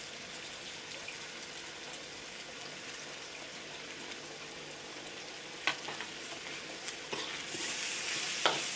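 Pork sizzling steadily in a hot wok. About seven and a half seconds in, a metal spatula starts stir-frying: it scrapes and clinks against the wok, and the sizzle grows louder.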